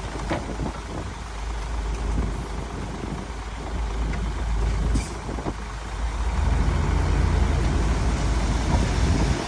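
Heavy diesel earthmoving machinery running with a steady low rumble, growing louder about six and a half seconds in.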